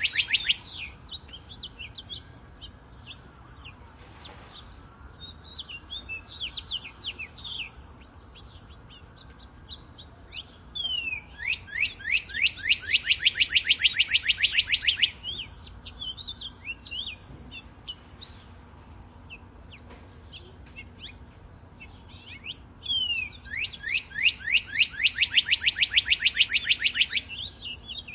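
A songbird repeating a loud, rapid trill of fast downward-sweeping notes, about nine a second for roughly three and a half seconds, twice, with softer scattered chirps from other birds in between.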